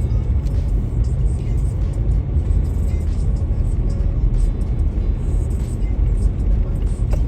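Steady low rumble of a car driving: engine and road noise, with no sudden events.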